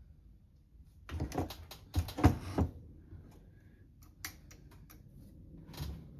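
Clicks and knocks of small metal carburetor parts being handled and fitted on a workbench: a cluster of sharper knocks a second or two in, then lighter ticks and another knock near the end.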